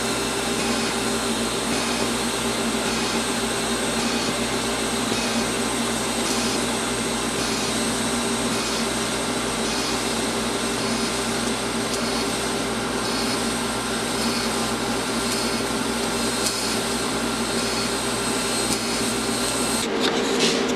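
Steady mechanical whirring hum with a hiss, running evenly and then cutting off suddenly near the end.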